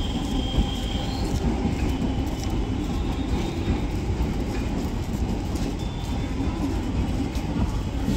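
Mumbai Central Railway suburban electric local train running along the tracks: a steady rumble of wheels and carriages.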